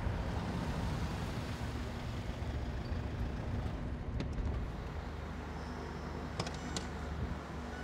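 Taxi car engine running at the kerb, a steady low rumble, with a few sharp clicks about four seconds in and a quick cluster of clicks about six and a half seconds in.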